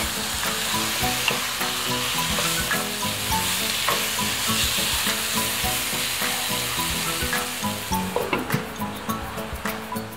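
Chicken pieces sizzling as they sauté with onion and garlic in a nonstick frying pan, stirred with a wooden spatula. Sharp taps and scrapes of the spatula against the pan come in the last couple of seconds.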